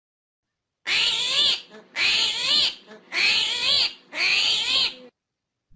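A cat meowing four times in a row, each meow rising and then falling in pitch.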